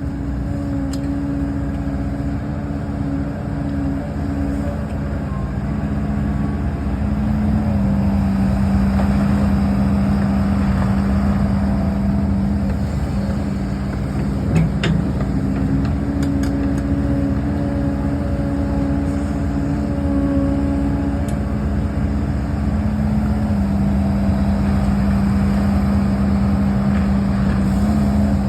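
HIDROMEK HMK230LC hydraulic excavator's diesel engine running under working load, its pitch stepping up and down as the hydraulics take load. A single sharp knock comes about halfway through.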